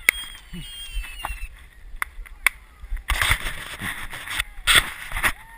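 Roman candles firing: a few sharp pops in the first couple of seconds, then two spells of loud hissing, about three seconds in and again near the end.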